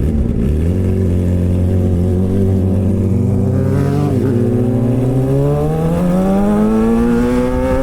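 Straight-piped inline-four of a 2007 Suzuki GSX-R600 (K7) running under way: the engine note holds steady, dips briefly about four seconds in, then rises steadily as the bike accelerates.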